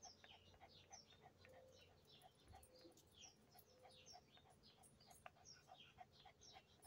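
Small birds chirping faintly in a dense run of quick, falling chirps, with a soft, even pulse a few times a second underneath.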